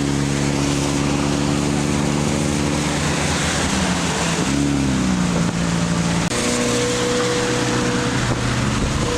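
Car engine running at a steady pitch under loud wind and road noise while driving. Its pitch dips and rises briefly about four to five seconds in.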